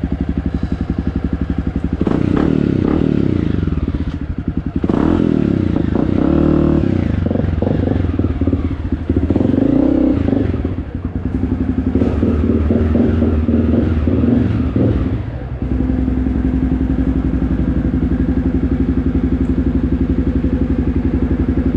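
Honda CRF250F single-cylinder four-stroke dirt bike with an FMF exhaust, ridden with the throttle opening and closing, easing off briefly a few times. About sixteen seconds in, the engine settles into a steady, even beat.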